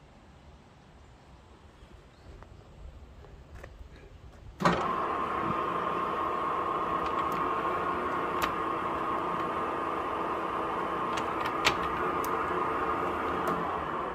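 Woodworking lathe's electric motor switched on about five seconds in, then running steadily with a steady hum and a few sharp ticks.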